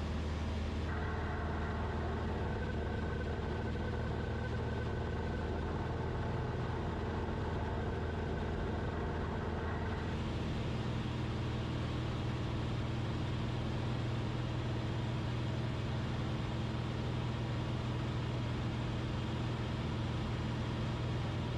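Cessna 172RG's four-cylinder Lycoming engine and propeller droning steadily in the cockpit. A higher steady tone sounds over the drone from about a second in until about ten seconds in, and the pitch of the drone shifts slightly just after it stops.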